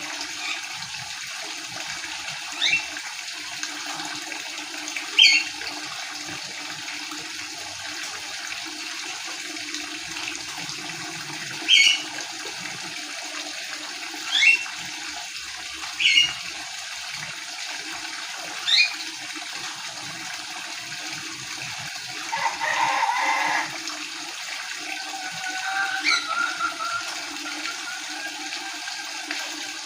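Birds chirping in short, sharp calls every few seconds, and a hen clucking and calling about two-thirds of the way through, over a steady hiss.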